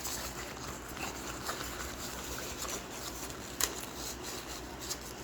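Faint handling sounds from a double-decker dog stroller's upper tier being lifted and adjusted, with a sharp click about three and a half seconds in. A room fan hums steadily underneath.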